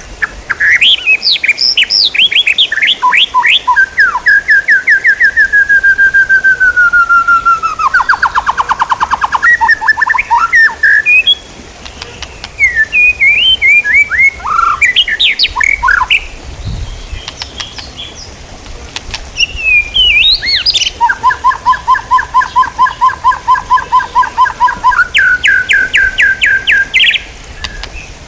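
A songbird singing a long, varied song of gliding whistles, fast trills and runs of evenly repeated notes, with short pauses about eleven seconds in and again from about sixteen to nineteen seconds.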